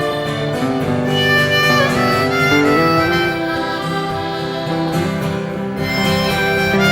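Live band playing an instrumental break of a slow country-folk song: guitar under a sustained lead melody line.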